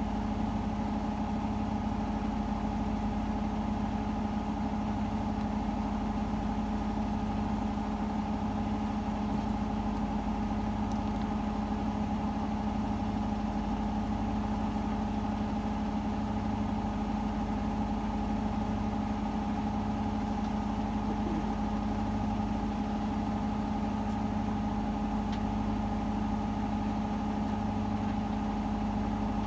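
Hotpoint WMFUG 942 washing machine spinning at a steady speed during an interim spin between rinses: a constant motor whine over a low hum that pulses evenly.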